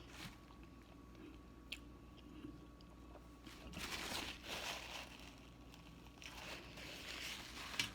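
A person chewing and crunching food close to the microphone, softly, with a louder stretch of chewing about halfway through and another near the end.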